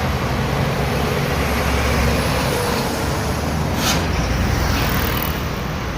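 Scania truck's diesel engine running with a steady low rumble as the truck gets under way. About four seconds in there is a short burst of air hiss.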